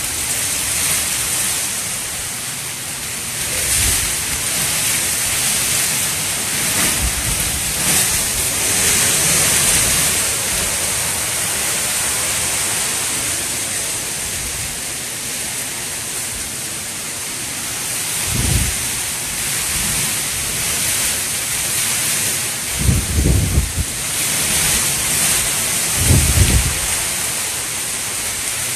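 Hurricane wind and driving rain making a steady loud hiss. Heavy gusts buffet the microphone with deep rumbling thumps several times, strongest about two-thirds of the way in and again near the end.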